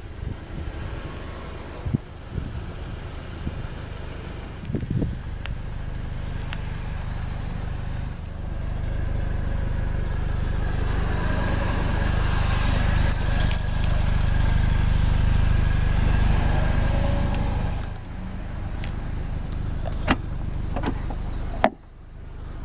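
A Volkswagen GTI's turbocharged 2-litre four-cylinder running steadily, louder in the middle stretch, with a few sharp clicks near the end.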